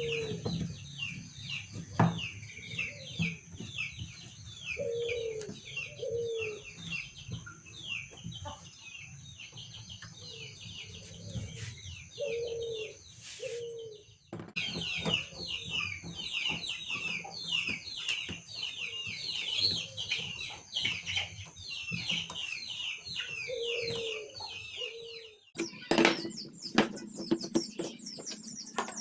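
Small birds twittering in quick, dense chirps, with a chicken clucking now and then. A few sharp knocks come near the end.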